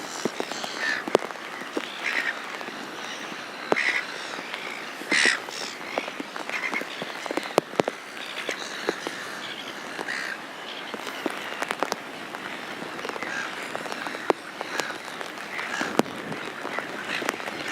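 Silver gulls calling: short, harsh calls repeated at irregular intervals over a steady outdoor background, with scattered sharp clicks.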